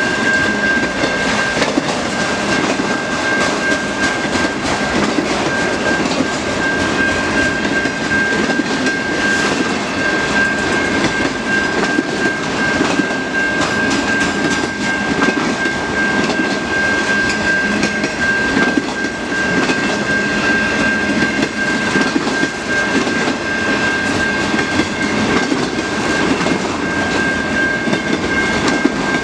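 Cars of a mixed freight train rolling steadily past over the rails, wheels clattering. A steady high-pitched tone sounds over it, with brief breaks.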